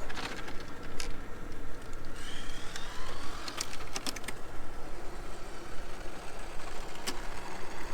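Electric motor of a 1/10-scale RC drag car giving a brief faint rising whine about two seconds in, over steady outdoor noise with a few sharp clicks.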